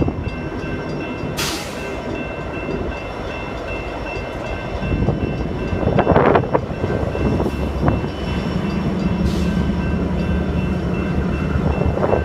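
Train running by, a steady rumble with high steady tones over it and two short hissing bursts. A low steady engine hum joins about seven seconds in.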